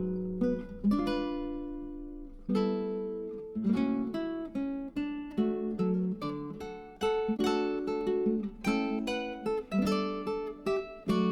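Background music: acoustic guitar playing plucked and strummed chords, each struck note ringing out and fading.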